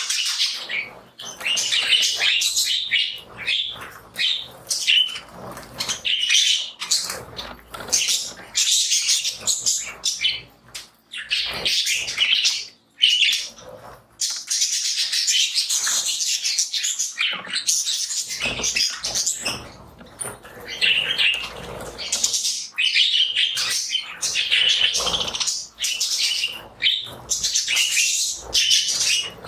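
A flock of budgerigars chirping and chattering continuously, with short gaps.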